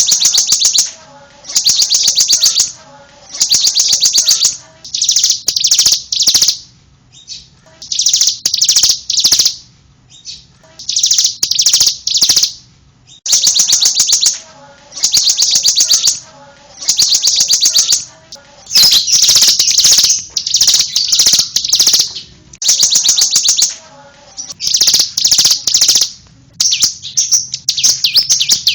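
Ciblek (bar-winged prinia) singing: repeated bursts of rapid, high chirping about a second long, separated by short pauses. Near the end the phrases run together with hardly a break.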